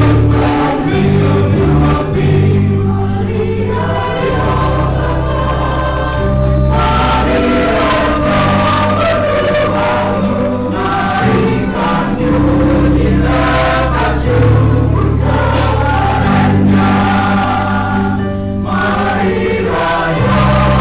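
Church choir singing a Christmas hymn over sustained low accompanying notes, the chords changing every few seconds.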